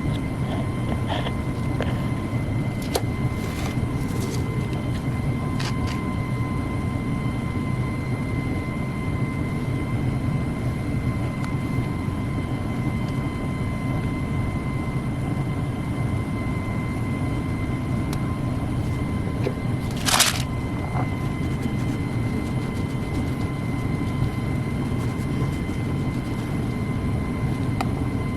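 An electric motor running steadily, a low rumble with a steady whine, with a few light clicks in the first seconds and one short, loud hissing scrape about twenty seconds in.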